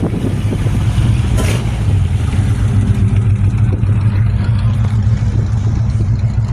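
A car engine running with a low, steady exhaust rumble, with a brief hiss about one and a half seconds in.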